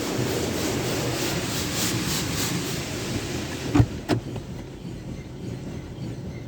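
Jim Coleman Water Wizard 1.0 automatic car wash running with a steady rushing noise, two sharp clunks a little under 4 s in, then a quieter run.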